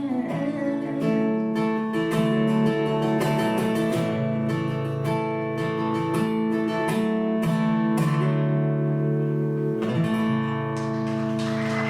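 Acoustic guitar strumming chords as the song's instrumental ending, finishing on a final chord left to ring about ten seconds in.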